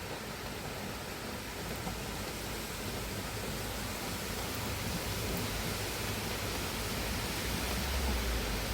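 Steady rushing of water, an even hiss with no separate drops or strokes, growing slightly louder toward the end.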